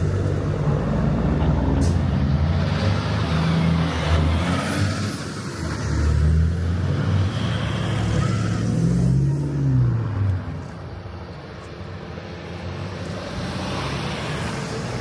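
Heavy trucks' diesel engines running as they drive past, low and loud, with one engine's pitch falling about nine seconds in. The sound eases off a little after about ten seconds as the trucks move on.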